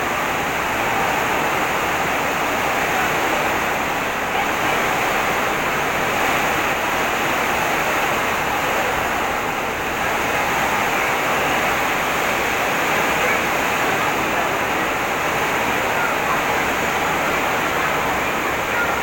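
Heavy rain pouring down, a steady loud hiss with no letup.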